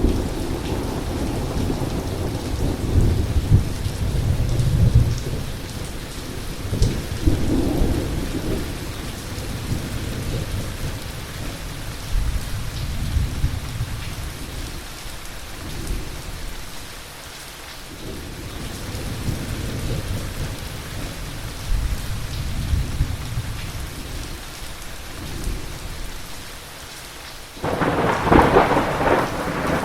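Thunderstorm: steady heavy rain with low thunder rolling, swelling and fading several times, then a sudden loud, sharper thunderclap near the end.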